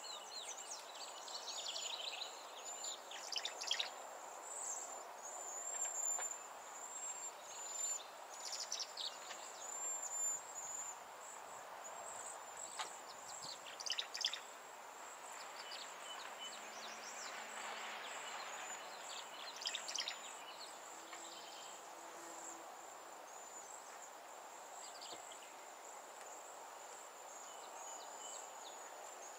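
Wild birds calling and chirping in scattered bursts of quick, downward-sweeping notes, over a steady high-pitched insect trill and a low background hiss.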